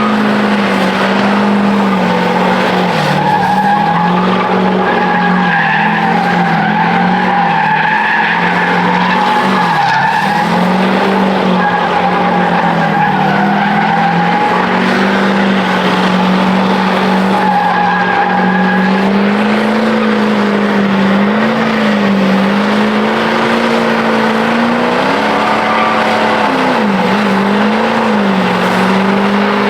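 Truck doing a burnout: its engine held at high revs, the pitch wavering up and down as the throttle is worked, over the hiss and squeal of spinning tyres.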